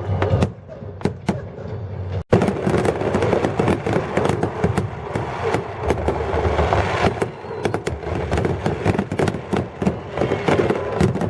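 Fireworks display: many rapid pops and bangs of aerial shells going off in quick succession, with the sound cutting out for an instant about two seconds in.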